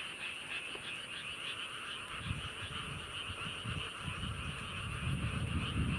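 A chorus of many frogs calling together in fast, pulsing trills. A low rumble joins in about two seconds in.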